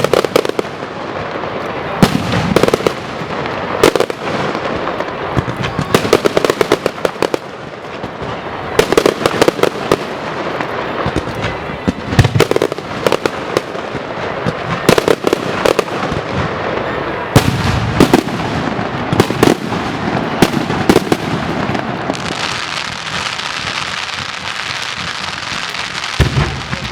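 Strings of firecrackers going off in a ceremonial firecracker salute: loud, uneven clusters of sharp bangs in quick succession. Near the end the bangs thin into a steadier crackle.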